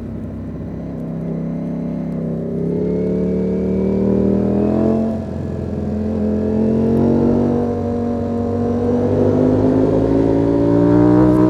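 Ducati Panigale V4 S motorcycle's 1103 cc V4 engine pulling under throttle. Its revs climb, drop briefly about five seconds in, then climb again to their highest near the end.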